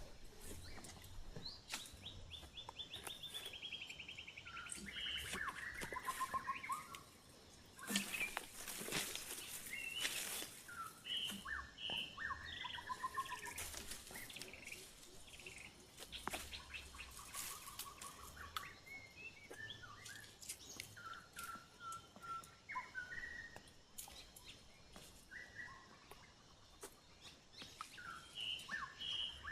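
Wild birds singing and calling, with repeated trills and short chirping phrases, joined by scattered sharp clicks and knocks, the loudest a cluster about eight to ten seconds in.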